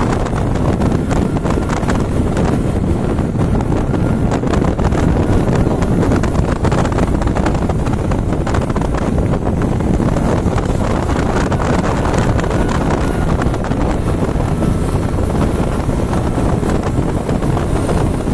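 Wind buffeting the microphone on a moving motorcycle, with the engine running underneath; a loud, steady rumble.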